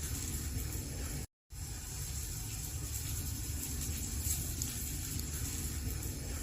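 Wood fire burning in a fireplace: a steady low rumble and hiss with faint crackles. The sound drops out to dead silence for a moment just over a second in, then resumes as before.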